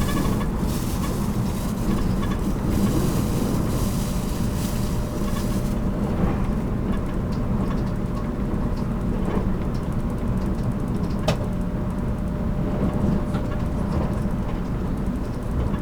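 Running noise heard aboard a JR Kyushu 783 series electric train car (MoHa 783-13): a steady rumble of wheels on rail. A hiss on top of it cuts off about six seconds in, and there is a single sharp click about eleven seconds in.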